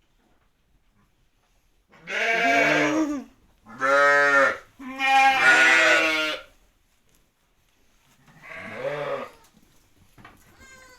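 A sheep or goat-type farm animal bleating: four long calls with a low, wavering pitch, the third the longest and loudest, separated by pauses.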